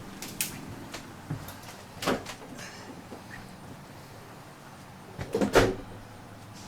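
A few scattered knocks and clatters of things being handled and shifted. The loudest is a quick cluster of several knocks about five and a half seconds in.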